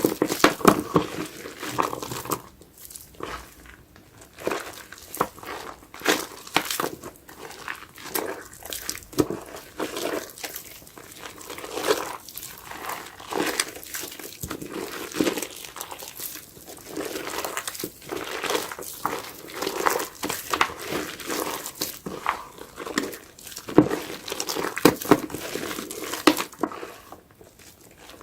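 A soapy sponge being squeezed and worked, giving irregular wet squishes and a crackle of foam, repeated many times.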